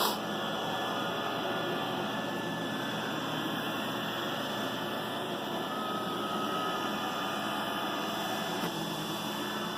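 iRobot Roomba 960 robot vacuum running on carpet: a steady whir of its vacuum motor and brushes, with a short knock right at the start.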